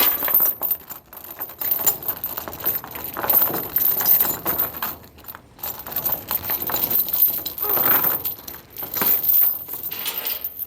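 Metal tie-down chains rattling and clinking in irregular bursts as they are handled and pulled free.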